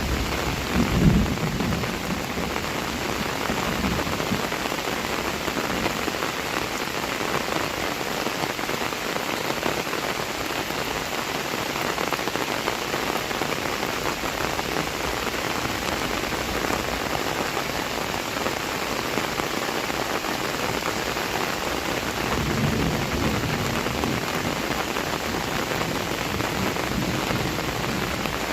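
Heavy rain falling steadily, with a short low rumble about a second in and another low swell a little before the end.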